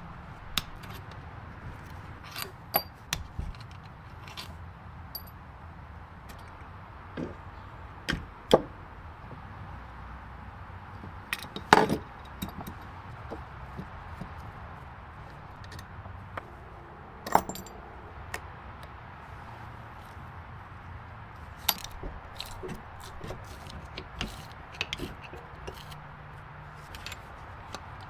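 Scattered clinks and knocks of metal tools and parts being handled during mechanical work, irregular and sometimes in small clusters, the loudest near the middle, over a steady low hiss.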